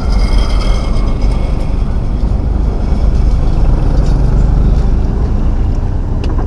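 Truck engine running with a steady low rumble while driving.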